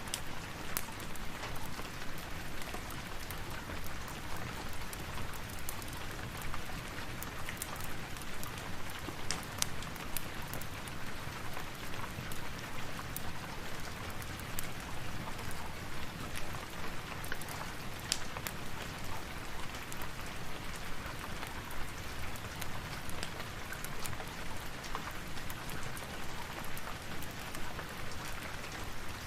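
Steady rain falling, an even hiss with scattered sharp crackles of a wood fire.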